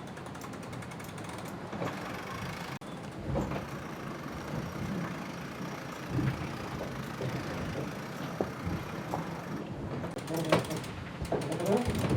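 Onboard noise of a racing sailboat: a steady rush with scattered mechanical knocks and clicks from deck gear, busier near the end.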